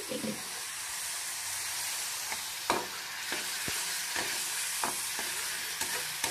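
Ginger-garlic paste sizzling steadily in hot oil in a kadai, with a metal spatula scraping and knocking against the pan about half a dozen times as it is stirred.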